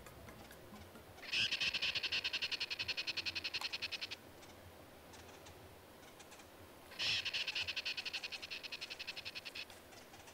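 A bird calling twice, each call a rapid run of repeated notes, about a dozen a second, lasting nearly three seconds. Each call starts loud and fades toward its end. The first comes about a second in, the second about seven seconds in.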